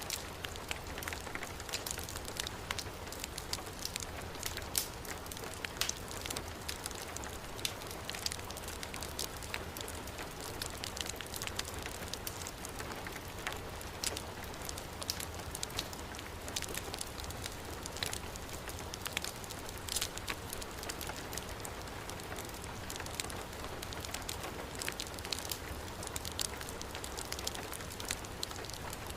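Heavy rain falling steadily together with a crackling wood fire in a fireplace, with many small sharp pops and ticks scattered through the steady hiss.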